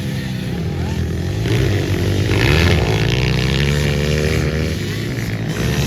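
Several pit bike engines revving as the bikes race, their pitch rising and falling with the throttle, loudest a little over two seconds in.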